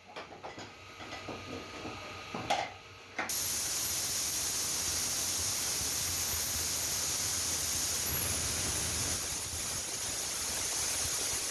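Light clattering knocks, then about three seconds in a loud, steady hiss of escaping pressure starts suddenly and keeps going.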